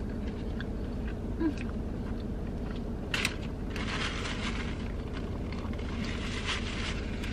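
A person chewing food with a paper napkin rustling at the mouth, loudest around the middle, a few soft clicks early on, over a steady low hum in a car's cabin.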